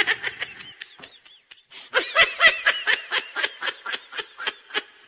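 Laughter: a short burst right at the start, then a longer run of quick repeated 'ha' pulses, about five a second, from about two seconds in until near the end.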